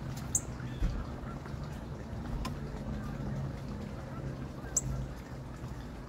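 Two short, sharp, high chip notes from a songbird, one just after the start and one near the end, over a steady low background rumble, with a soft thump about a second in.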